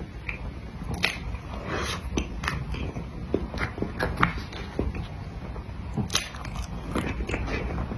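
Someone eating cream cake: soft chewing with irregular wet mouth clicks and smacks.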